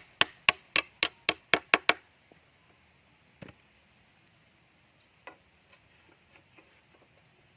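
Quick, evenly spaced sharp strikes on wood, about four a second, that stop about two seconds in, followed by a few faint scattered knocks.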